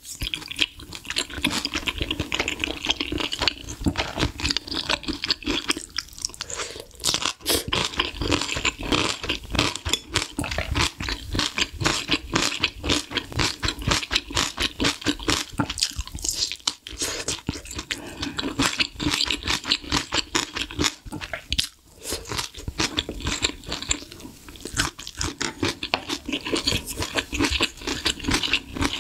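A person eating close to the microphone: a steady run of wet chewing clicks and smacks as she eats spoonfuls of spicy beef rib soup and a rolled egg, with brief lulls between mouthfuls.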